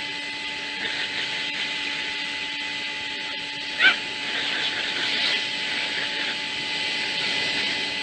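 A dog gives a single short, sharp yelp a little before the middle, with fainter whining after it, over a steady background hiss.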